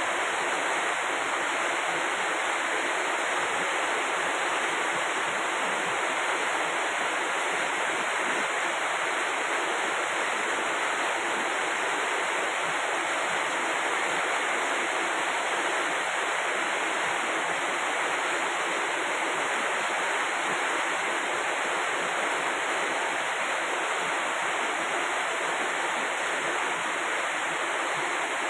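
Steady, even rushing water noise that does not change.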